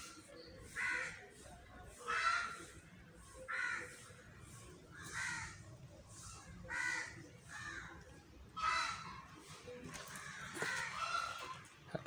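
A bird calling over and over outdoors, about eight short calls spaced a second or two apart.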